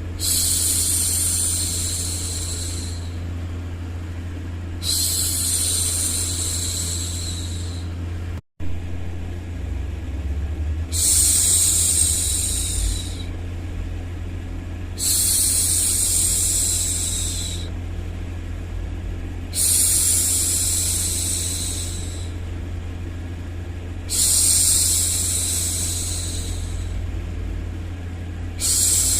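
A woman's voice making long, even 'shhh' hushing sounds, each about two to three seconds, repeated every four to five seconds, over a steady low background noise. The sound cuts out briefly about eight seconds in.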